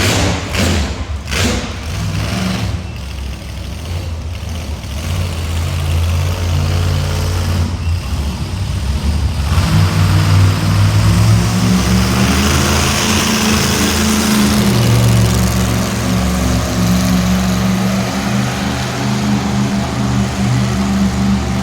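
Monster truck engine running and revving, growing louder and higher in pitch about halfway through.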